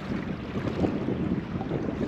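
Wind buffeting the microphone, with choppy water lapping and splashing against a kayak hull.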